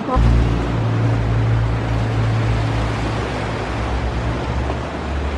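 Ocean surf washing against a rocky shore, with wind buffeting the microphone as a loud, steady low rumble that cuts in abruptly right at the start.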